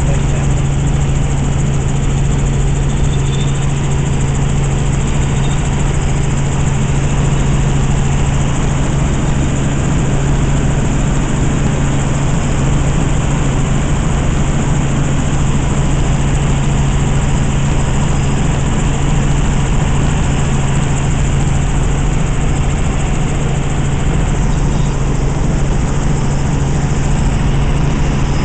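Helicopter in flight: a loud, steady engine and rotor drone with a constant low hum that does not change.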